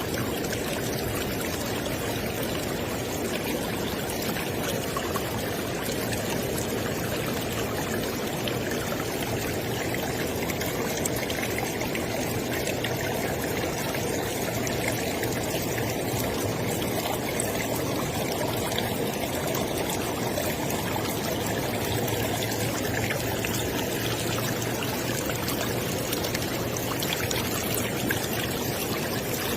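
River water flowing steadily, a continuous rushing and splashing with no pauses or changes.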